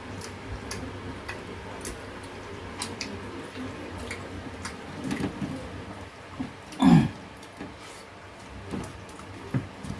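Eating sounds at a shared meal: scattered small clicks of utensils and dishes with soft chewing, and one brief louder sound with a bending pitch, like a short vocal murmur, about seven seconds in.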